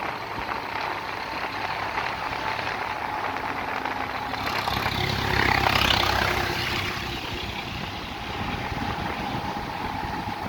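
Road traffic noise, with a vehicle passing close by and swelling to its loudest about six seconds in before fading.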